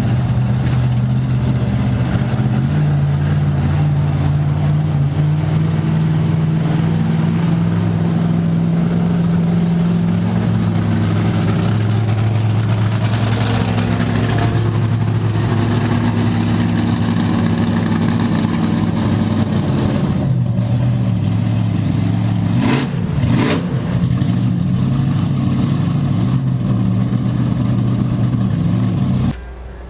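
Monster truck engine running loudly, its pitch stepping up and down as it revs.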